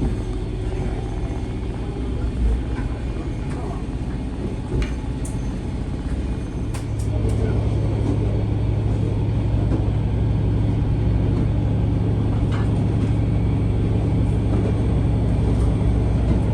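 Steady rumble of a moving diesel railcar heard from inside the cabin; about seven seconds in, a low engine drone grows louder and holds steady. A few light clicks can be heard.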